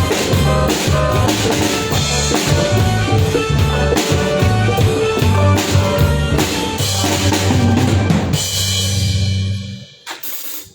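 Live band music with a drum kit and bass guitar playing a steady beat. The song ends about ten seconds in, with a final hit that rings out.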